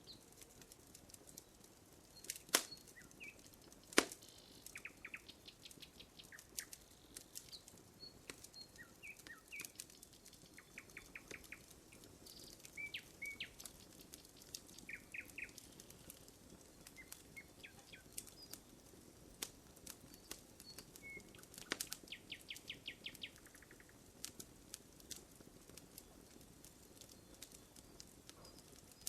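Wood campfire crackling with scattered sharp pops, a few louder ones about two and a half seconds in, at four seconds, and again past twenty seconds. Birds chirp in the background, with short rapid trills.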